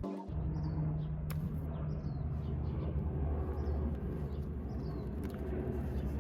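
Small birds chirping several times over a steady low hum, with a sharp click about a second in.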